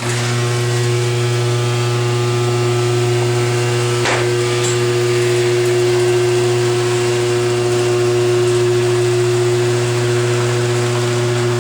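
Chamberlain HD200D chain-drive garage door opener, converted to a T-rail, running through a door travel with a loud, steady hum. A short higher-pitched sound comes about four seconds in. The owner blames the noise on the motor case vibrating against the chassis.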